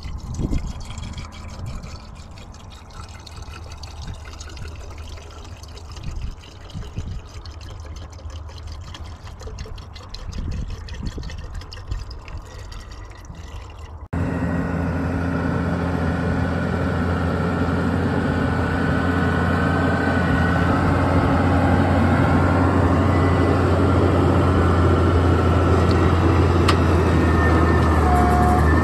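Quiet, irregular crackling and clicking over a low hum. About halfway through it cuts to a vehicle engine running steadily, a louder low drone that builds a little toward the end.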